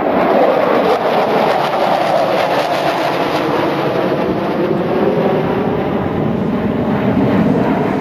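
Su-27 fighter jets' turbofan engines roaring loudly overhead, a dense steady rush with a tone that sinks slowly in pitch as the jets pass.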